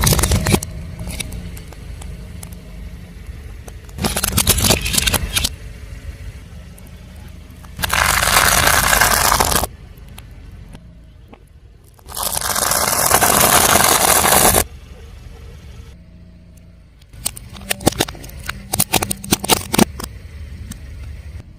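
Car tyre rolling over and crushing crunchy objects: separate bursts of crackling and crunching several seconds apart, two of them long and loud, then a run of sharp crackles near the end. A car engine runs steadily underneath.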